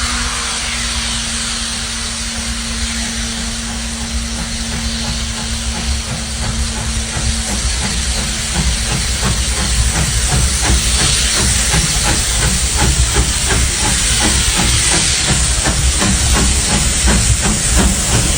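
Steam locomotive hissing steam, with a steady low tone for the first seven seconds; about eight seconds in, regular exhaust beats start and grow louder as the engine works.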